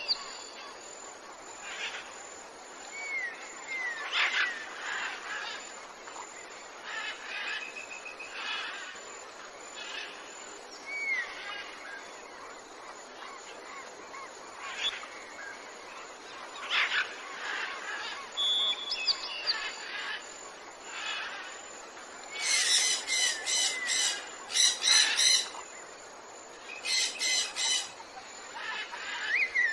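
Small birds chirping and calling, with short whistled notes over a steady outdoor hiss. About three-quarters of the way through comes a loud spell of harsh, rapidly repeated chattering notes, and a shorter one follows near the end.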